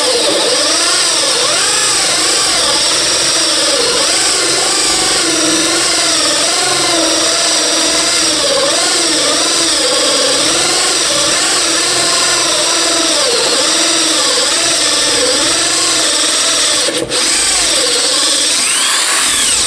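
Electric drill driving a dull hole saw through plywood, running continuously with its motor speed wavering under load. The worn saw is burning its way through the wood rather than cutting cleanly. There is a brief break about 17 seconds in.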